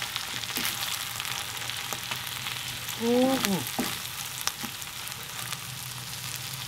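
Shrimp and steak fried rice sizzling in a skillet on a camp stove with the burner just turned off, a steady hiss with light clicks and scrapes from a wooden spatula stirring it. A short falling vocal sound, like a hum, comes about three seconds in.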